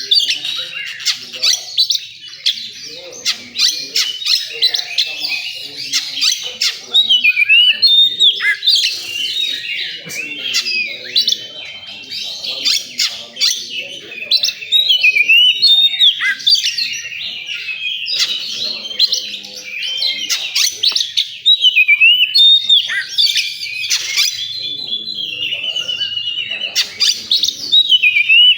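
Oriental magpie-robin (kacer) singing a loud, continuous, varied song of short whistled sweeps, chatter and sharp clicks.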